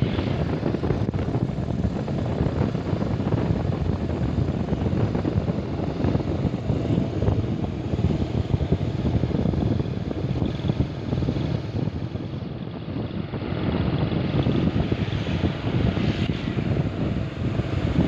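A truck running with a steady, uneven rumble, mixed with wind buffeting the microphone.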